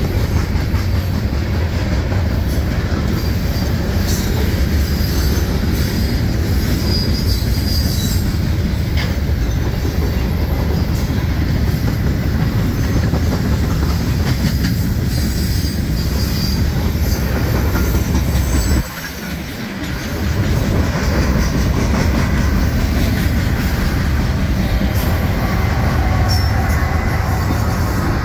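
Freight train cars rolling past close by: a steady rumble of steel wheels on the rails, with occasional clicks and faint high-pitched wheel squeal. The rumble drops briefly about two-thirds of the way through.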